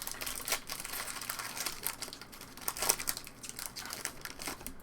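Trading-card pack wrappers crinkling as packs and cards are handled, an irregular run of crackles with a louder burst near the end.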